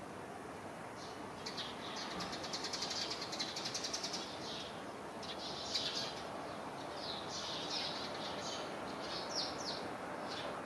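Songbirds chirping and chattering: many short, high calls, with a fast chattering run about two to four seconds in.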